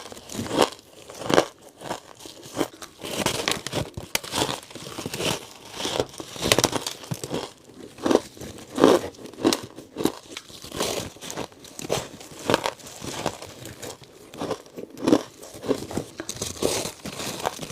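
Close-miked crunching of ice being bitten and chewed: an irregular run of sharp crunches, about one or two a second.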